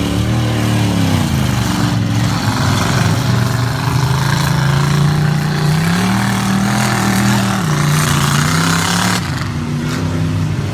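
Racing trucks' engines running hard around a figure-8 track, revving up and easing off in turn over a steady wash of engine noise. Engine pitch falls about a second in, climbs again around six seconds and drops near eight.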